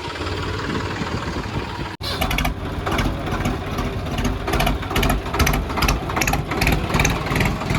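Tractor diesel engine running at idle, with a brief cut about two seconds in.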